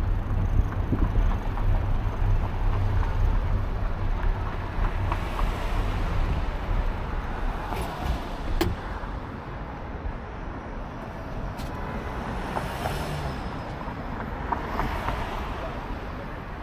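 Outdoor road noise heard from a moving bicycle: a steady rumble with traffic sounds. The low rumble is heavy for the first half and eases after about nine seconds, and a single sharp click comes near the middle.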